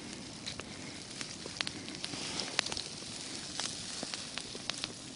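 Small fire burning a fishing net: a steady hiss with scattered sharp crackles and pops.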